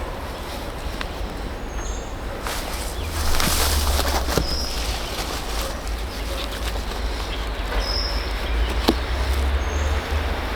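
Outdoor ambience with a steady low wind rumble on the microphone, a few light clicks, and about four short, high bird chirps.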